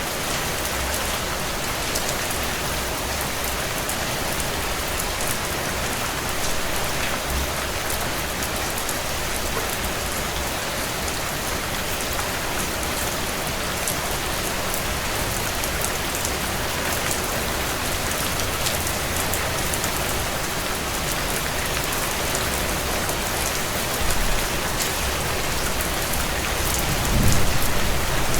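Heavy rain falling on a tin roof: a steady, dense patter of drops on the metal. A low rumble rises near the end.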